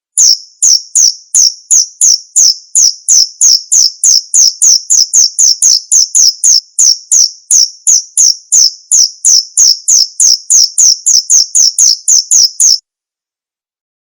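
Male cricket singing its calling song: a loud, steady run of short high-pitched chirps, about three a second, quickening slightly near the end before cutting off abruptly.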